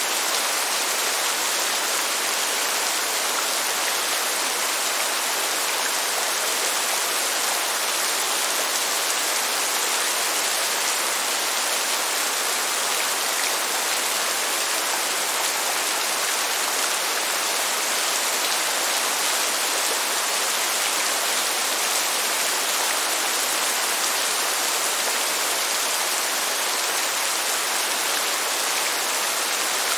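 Steady rain, an even hiss of many drops with no change in strength. No thunder rumbles in this stretch.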